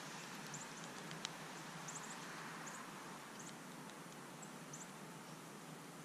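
Faint, high-pitched bird call notes, short squeaks often coming in quick pairs, over a steady background hiss, with one sharp click a little over a second in.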